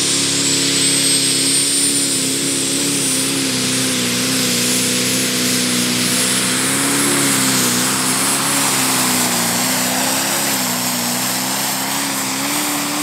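Pro Stock pulling tractor's single-turbo diesel engine running flat out under the load of a pull. Its pitch wavers slightly, and a high whine rises slowly over the first several seconds.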